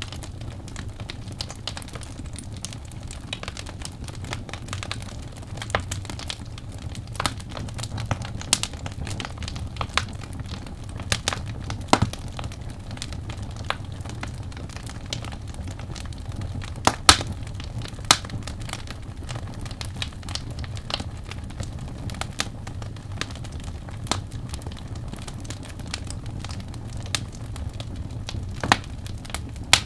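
Wood fire crackling: irregular sharp pops and snaps over a low steady rumble, with a few louder pops, the loudest about halfway through.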